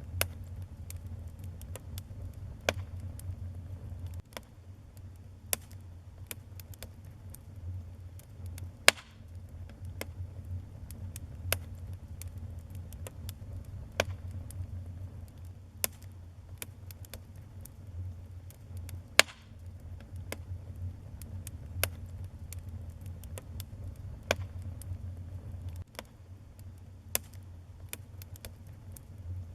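Wood fire burning in a fireplace: irregular sharp crackles and pops over a low steady rumble, with two louder pops about ten seconds apart.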